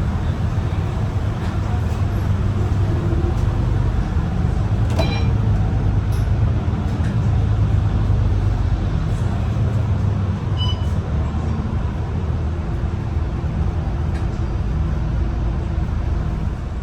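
MAN ND323F double-decker bus engine running under way, heard from on board, a steady low drone that changes pitch as the bus is driven hard, over road noise. A single sharp knock sounds about five seconds in.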